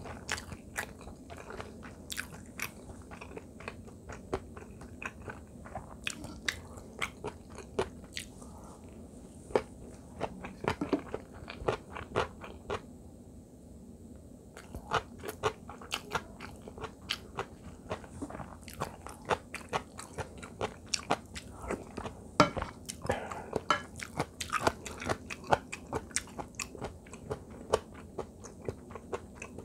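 Close-up chewing and crunching of radish-kimchi fried rice, the crisp radish cubes giving quick crunches between mouthfuls. The chewing pauses briefly a little before halfway, then comes back busier to the end, with one sharp click standing out about three-quarters of the way through.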